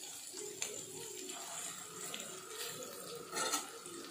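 Chicken pieces and masala frying on an iron tawa: a soft, steady sizzle, with a few light clicks and a brief louder scrape of the metal spatula and spoon about three and a half seconds in.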